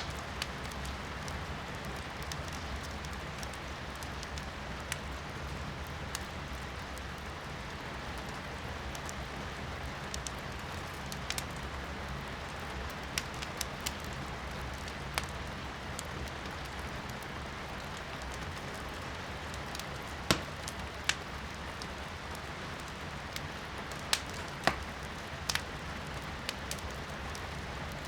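Firewood burning in a fireplace, crackling and popping with sharp irregular snaps, a few louder ones past the middle, over a steady hiss of rain heard from indoors.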